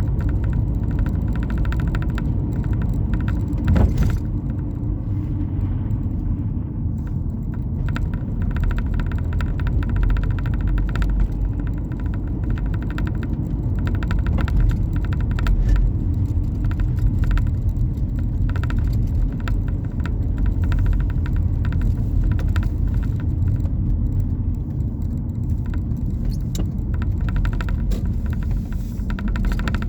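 A steady low rumble, with many faint small clicks and ticks scattered through it and a slightly louder knock about four seconds in.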